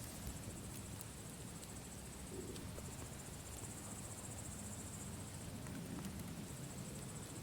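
Campfire ambience: a low steady rush of burning wood with a few scattered crackles, under a continuous high pulsing trill of crickets that swells and fades.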